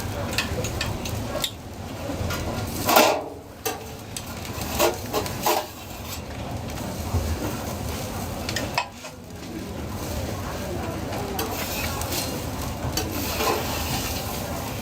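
Food sizzling as it fries, with metal utensils clinking and scraping against the pan or griddle several times, loudest about three seconds in.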